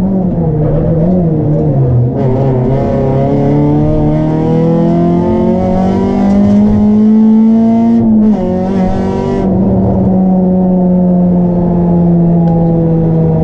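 Opel Astra F GSi rally car's engine heard from inside the cabin: revs drop at the start, then climb steadily through a gear for about six seconds. A quick fall in revs at an upshift comes about eight seconds in, and the engine then settles into a steady drone that slowly falls.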